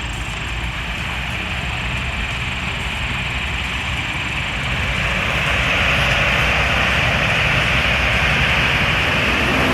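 Heavy truck engine running with road noise, growing louder about five seconds in.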